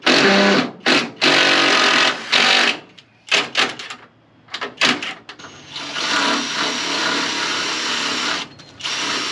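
Power drill/driver driving screws to fasten metal drip edge on a coop roof: several short runs in the first half, then one longer run of nearly three seconds.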